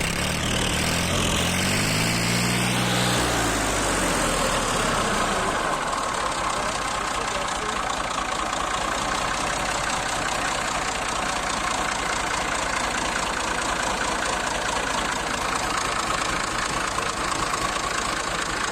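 Massey Ferguson 240 tractor's three-cylinder diesel engine running. It is revved up and back down in the first few seconds, then settles into a steady idle.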